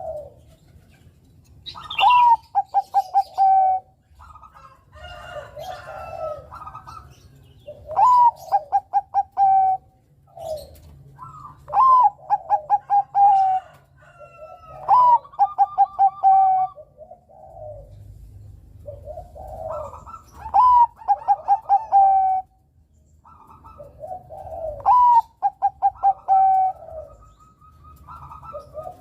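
Zebra dove (perkutut Bangkok) singing: six phrases a few seconds apart, each opening with a rising note and running into a quick string of about six short, clipped coos, with softer, lower cooing in between.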